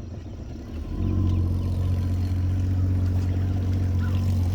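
Boat motor running, stepping up to a louder, steady drone about a second in.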